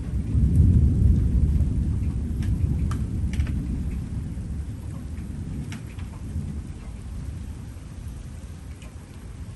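Thunder rolling, swelling about half a second in and then slowly dying away, with a few scattered raindrops ticking.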